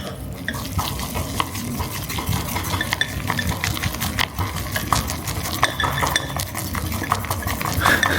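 Sticky natto (fermented soybeans) being stirred fast in a bowl with a utensil, a dense run of quick, irregular clicks and scrapes against the bowl. This is the whipping that makes natto go slimy and stringy.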